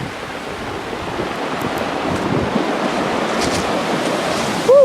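Large ocean waves breaking on the shore, a steady rushing surf that swells louder through the middle. A short whooping shout right at the end.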